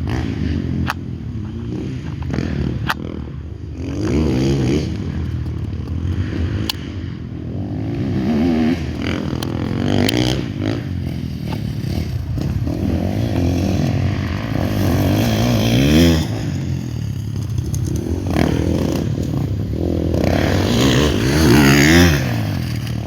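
Dirt bikes being ridden and revved, their engine pitch rising and falling again and again, with a few sharp clicks.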